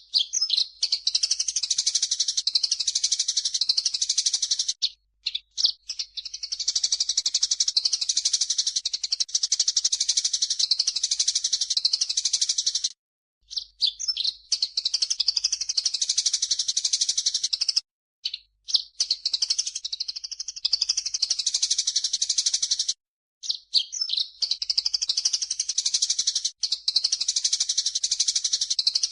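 Recorded chattering bird song from a masteran mix of cucak jenggot (grey-cheeked bulbul) and burung gereja (Eurasian tree sparrow), dense high chirps and trills. It comes in stretches of several seconds, each cut off abruptly by a short break.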